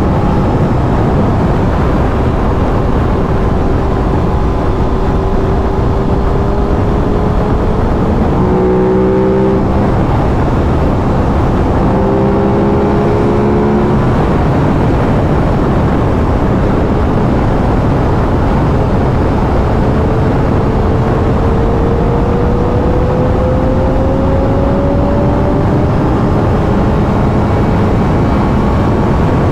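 Aprilia RS 660 parallel-twin engine on its stock exhaust at highway speed, running steadily under heavy wind rush on the microphone. The engine note shifts a few times and climbs slowly in pitch about two-thirds of the way through.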